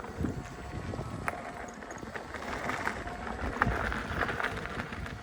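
Wind buffeting the microphone and tyre rumble from an electric unicycle rolling along a trail, with a faint steady whine and a few light clicks and knocks.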